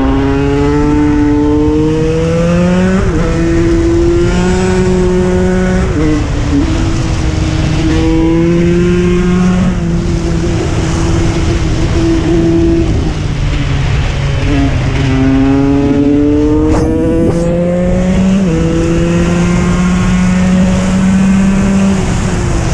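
KTM 125 EXC's single-cylinder two-stroke engine running hard under way, its pitch climbing under throttle and dropping back sharply several times.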